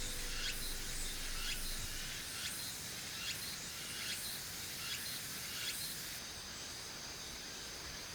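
Outdoor forest ambience with a steady high-pitched insect chorus, and soft ticks about every 0.8 s until about six seconds in. Background music fades out about a second in.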